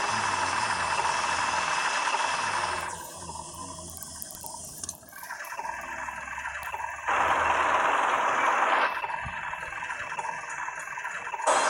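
Excavator running: engine hum under a dense steady hiss and rattle. It drops abruptly about three seconds in and comes back loud about seven seconds in.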